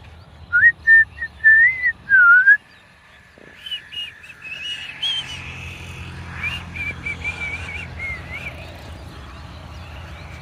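A person whistling: a few loud, clear notes, some rising and one dipping, in the first couple of seconds. Fainter warbling whistles follow over a low steady hum.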